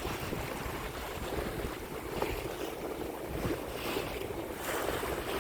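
Sea waves washing and splashing, with wind blowing across the microphone.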